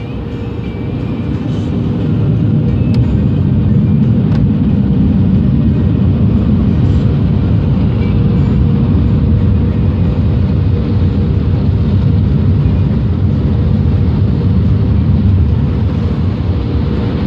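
Automatic car wash machinery running: a loud, steady rumble that swells about two seconds in and then holds.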